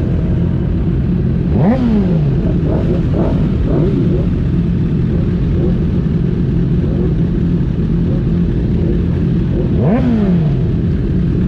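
Racing motorcycle engines running with a steady drone, broken by a sharp rev that rises and falls about two seconds in, a few smaller revs just after, and another sharp rev near the end.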